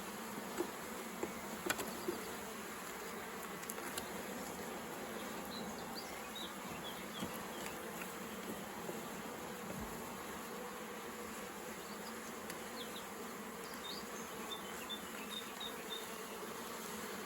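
Honeybees buzzing in a steady hum over an open hive, with a few light clicks.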